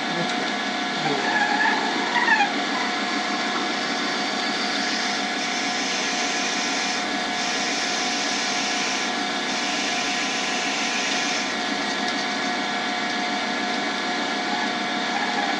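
Lathe motor running steadily with the spindle at about 1200 RPM while a drill bit in the tailstock cuts into the spinning shift-knob blank. A hissier cutting noise comes in about five seconds in and eases off after about eleven seconds.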